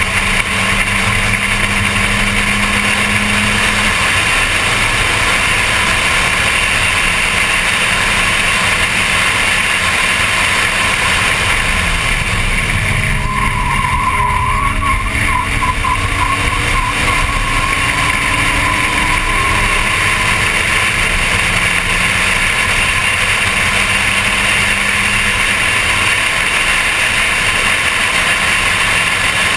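Onboard sound of a Volkswagen Golf Mk1 race car's 1.8-litre four-cylinder engine running hard at racing speed, with wind and road noise. About halfway through, the engine note drops as the car slows for a corner, then climbs again as it accelerates out.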